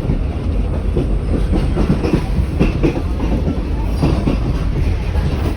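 Wooden 1920s Evans passenger carriage of a heritage train running along the track: a steady low rumble with irregular clattering knocks from the wheels on the rails.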